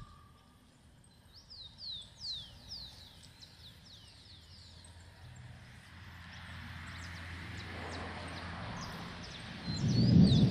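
A bird calling again and again with short, high, falling whistles, often several in quick succession. A low rumble builds from about six seconds in and swells loud near the end.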